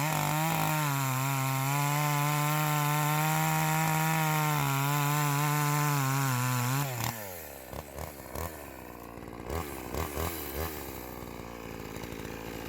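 Gasoline chainsaw running at steady high throttle while cutting up a downed tree. About seven seconds in, the engine note falls away as the throttle is released, leaving a quieter low running sound with a few light knocks.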